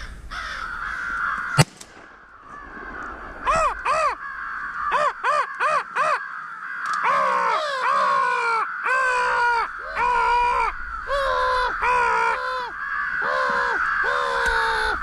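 A single shotgun shot about a second and a half in, then crows cawing. First two caws, then a quick run of four, then a long string of drawn-out caws.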